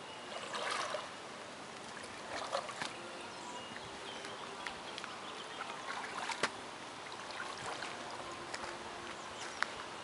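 Small splashes and trickling water as an improvised wooden paddle is worked in the water beside a homemade canoe, with a few sharp clicks scattered through, the loudest about two-thirds of the way in.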